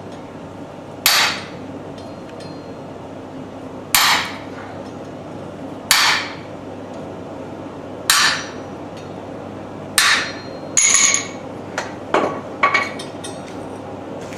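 Hammer striking metal: single ringing blows about two seconds apart, then a quicker run of lighter strikes near the end.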